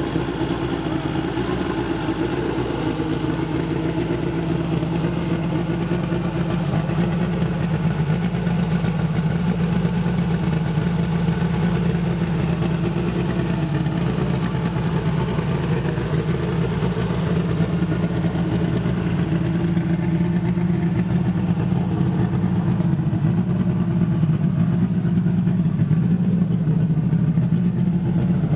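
Turbocharged Honda LS/VTEC four-cylinder with a GT42 turbo idling steadily on its first start-up after the build. The idle steps up slightly about three seconds in.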